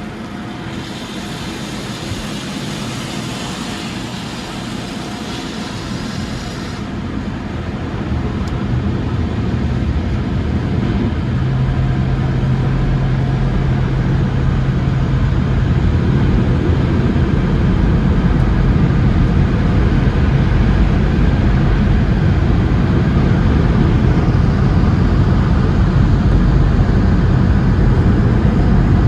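Sonny's tunnel car wash heard from inside the car: a spray hiss for the first several seconds, then a roar that grows louder and holds steady, with a low hum, as the car passes under the dryer blowers.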